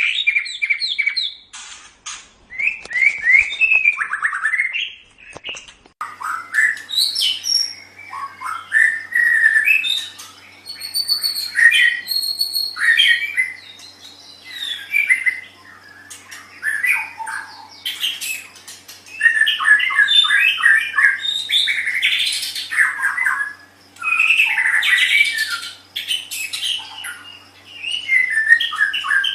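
White-rumped shama (murai batu) singing: loud, varied phrases of whistles, rapid trills and harsh notes, in bursts of a few seconds with short pauses between. A faint steady hum lies under the song from about six seconds in.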